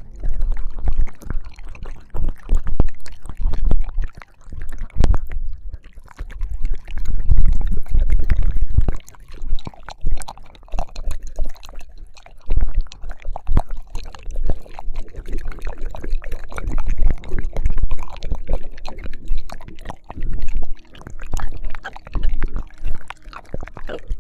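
ASMR ear-licking mouth sounds close on a binaural microphone: continuous wet licking, smacking and slurping clicks, with heavy low thuds where the mouth presses against the mic.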